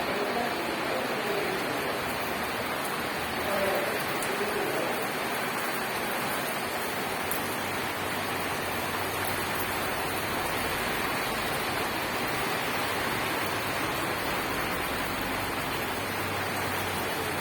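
Rain falling steadily in a rain and wind storm, a constant even hiss.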